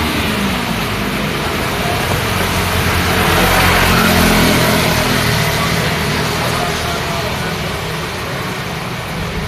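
Road traffic in the rain: vehicle engines running and passing over a steady hiss of rain, with one vehicle passing louder about three to four seconds in.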